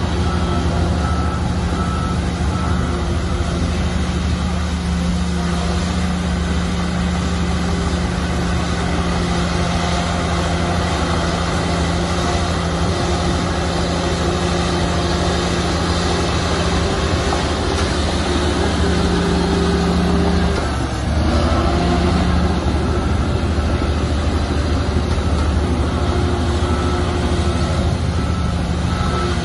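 Shantui bulldozer's diesel engine running steadily under load, with a brief dip and recovery a little past two-thirds of the way through. A reversing alarm beeps at the start and again near the end.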